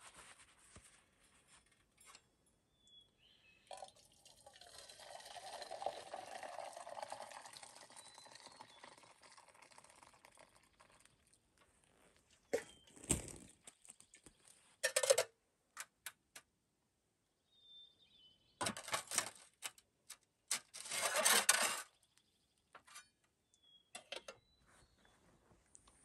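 Water being poured for coffee, a steady pour for about seven seconds that fades out, followed by a few short clinks and rustling clatter.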